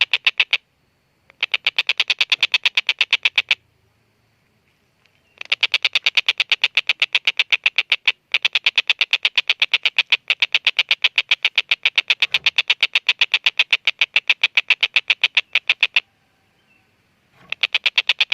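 Tengkek buto kingfisher giving its long cackling call: rapid runs of sharp 'kek' notes, about eight or nine a second, in bursts separated by short pauses. The longest run lasts about ten seconds.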